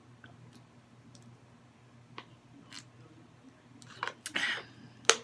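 Close-up eating sounds: a few faint mouth clicks, then a crisp crunch from biting fried breading about four seconds in, and a sharp click near the end.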